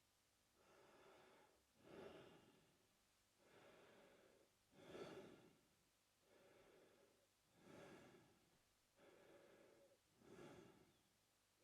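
A man breathing slowly and faintly through his mouth. Each breath has a softer part followed by a louder one, coming about once every two and a half to three seconds, four breaths in all.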